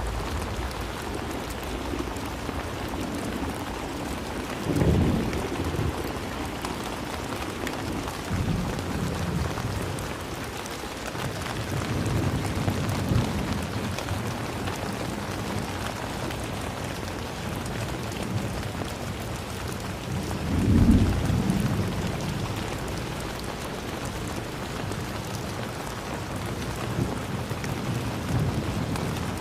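Steady rain falling, with several low rolling rumbles of thunder that swell and fade; the loudest come a few seconds in and about two-thirds of the way through.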